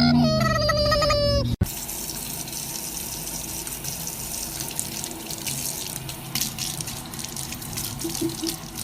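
A pitched, tune-like sound stops abruptly about a second and a half in. A steady rush of running water, like a tap, follows, with a faint low hum.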